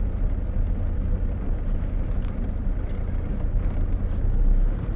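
High four-wheel-drive vehicle driving along a dry riverbed: a steady low engine and tyre rumble with faint clicks and rattles, swelling slightly near the end.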